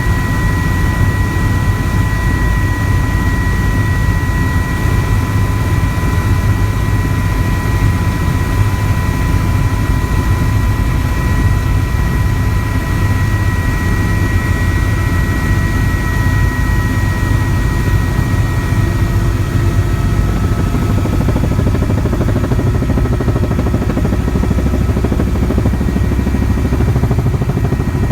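Helicopter engine and rotors running: a loud, steady drone with thin, high whining tones over it. The highest whine fades away about two-thirds of the way through.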